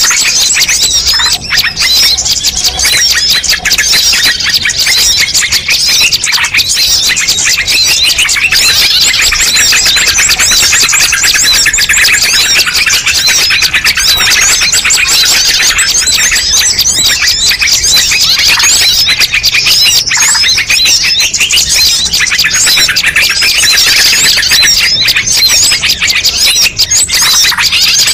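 Dense, unbroken chorus of many small birds chirping and twittering over one another, a mixed bird-lure recording of several species layered together.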